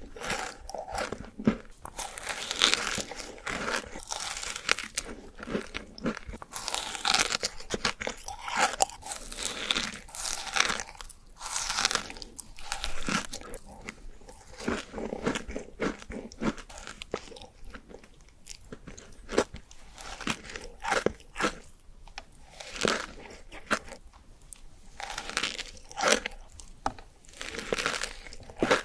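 Close-miked eating of crunchy sweets: repeated bites and irregular crunching as the food is chewed.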